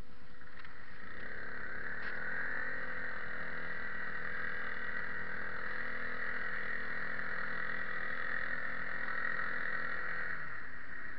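A motor spins up about a second in, runs at a steady pitch, then winds down and stops near the end, over a steady hiss.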